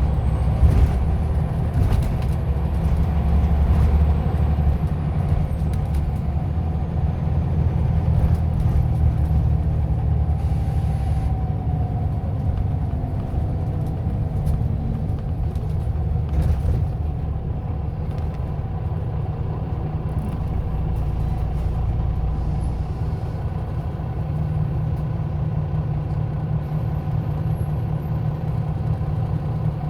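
Scania OmniLink I CL94UA city bus running along the road: a steady low engine and road rumble, slightly louder during the first several seconds.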